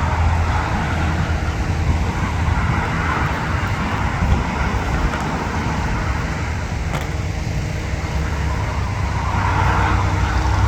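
Steady low engine rumble with a wash of noise above it, with one sharp click about seven seconds in.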